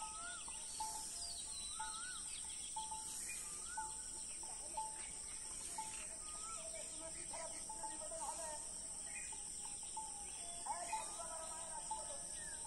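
Birds calling: one bird repeats a short single note about every half second, while others give rising-and-falling whistled calls, over a steady high-pitched hiss.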